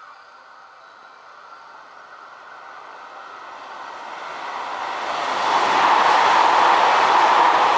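Electric passenger train approaching from a tunnel, growing steadily louder from about three seconds in, then passing close by the platform at speed, loud and steady for the last few seconds.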